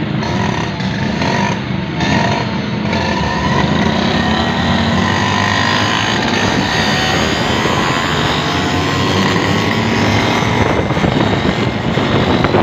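Several Vespacar three-wheeled rickshaw engines running hard together as the rickshaws race, their overlapping pitches slowly rising over a few seconds as they accelerate.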